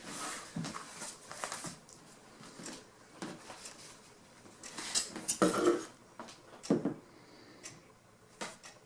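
Workbench handling noises: scattered light knocks, clinks and rustles of material and tools being moved, the biggest cluster about five and a half seconds in.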